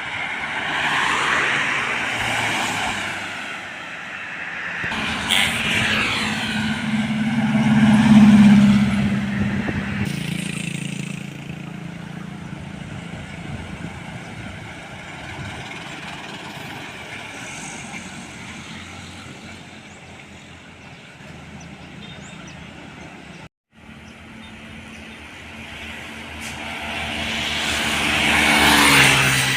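Heavy diesel vehicles, trucks or buses, passing close by on a road one after another, each swelling and fading with tyre noise and engine hum. The loudest pass is about eight seconds in, and its hum drops in pitch as it goes by. The sound cuts out briefly about three-quarters of the way through.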